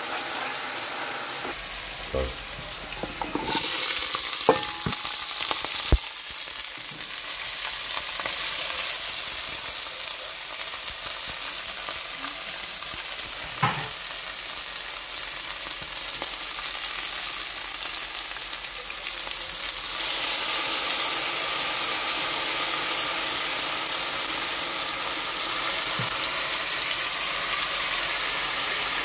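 Food sizzling in oil in a frying pan: pieces of meat frying as a fork turns them, then chopped onion and scallions frying. A steady sizzle throughout, broken by a few sharp knocks of utensil against pan in the first six seconds and once more about fourteen seconds in.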